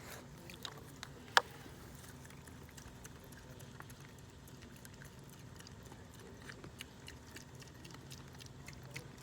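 Piglets eating, with many small scattered clicks and crunches of chewing and nosing at their feed; one sharper knock about a second and a half in.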